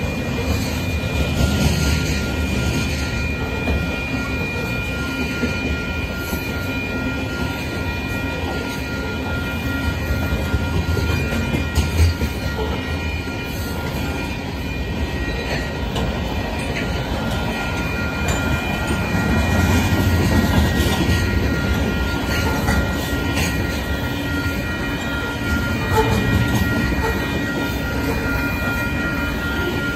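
Covered hopper cars of a Canadian Pacific freight train rolling past at a level crossing: a steady low rumble of steel wheels on rail with scattered clacks, and thin steady high-pitched tones above it.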